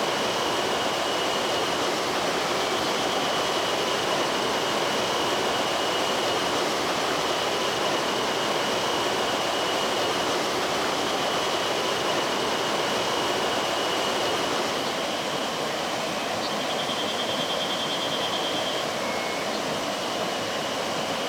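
Clear mountain stream rushing and babbling over rocks, a steady full water sound that eases slightly about fifteen seconds in. A thin, high, pulsing trill runs faintly above the water.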